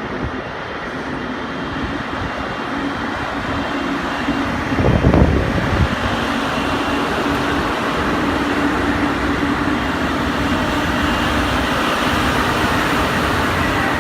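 ChS7 electric locomotive and passenger train running on the rails, a steady rumble with a humming tone that grows gradually louder. A brief low thump comes about five seconds in.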